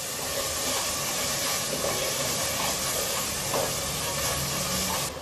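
Onion-tomato masala frying in oil in a pressure cooker pan, sizzling with a steady hiss as it is stirred with a wooden spatula. The hiss cuts off sharply near the end.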